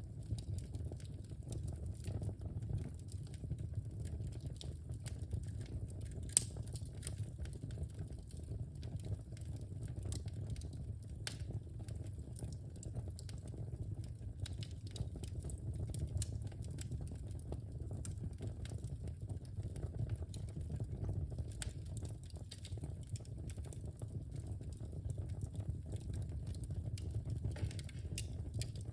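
Wood fire in a fireplace crackling, with scattered small pops over a steady low rumble of flames, and one sharper pop about six seconds in.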